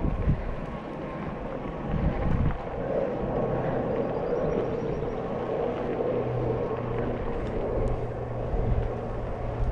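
Steady rumble of wind and road noise while riding a bicycle, with a low steady hum that comes in about three seconds in.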